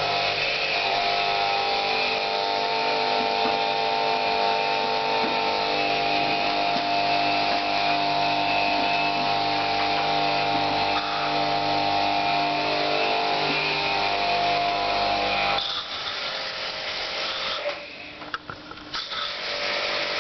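Electric jet-pump pressure washer running steadily, its motor giving a held hum with several steady tones over a hiss of spraying water. About three-quarters of the way through it cuts off abruptly, leaving quieter, uneven sounds.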